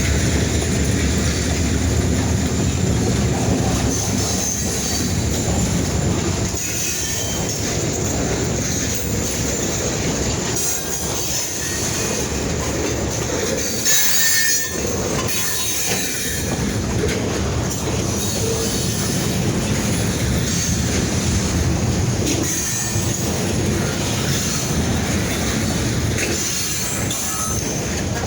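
Freight train rolling past at close range: steel wheels clacking over rail joints and squealing against the rails, with a heavy rumble that eases after the first few seconds.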